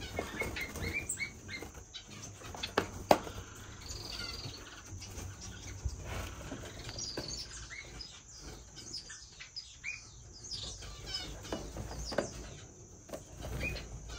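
Small cage finches chirping and calling, many short high chirps scattered throughout, with a couple of sharp clicks about three seconds in.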